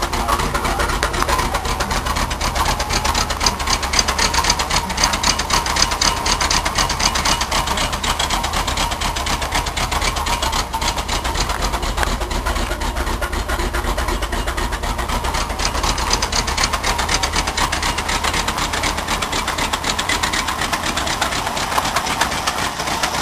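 1979 Ford F-150's 400 V8 idling steadily, with a rapid, nasty-sounding pulsing from the exhaust: two blown exhaust donut gaskets are leaking.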